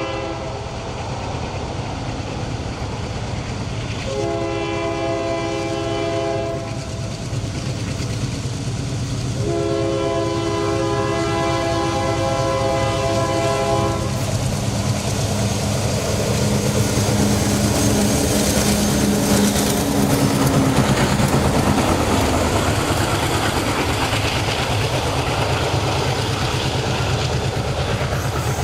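Diesel locomotive horn sounding two long chord blasts, the second longer, followed by the locomotive approaching and passing with its engine drone and rail noise growing louder.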